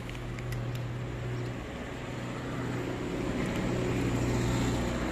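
Motor vehicle engine running with a steady low hum, growing louder toward the end.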